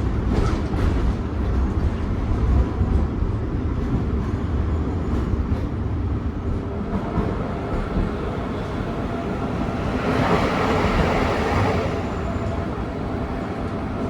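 Tram running on rails, heard from inside the car: a steady low rumble of wheels and motors with a few clicks near the start, and a louder hissing surge lasting about two seconds, ten seconds in.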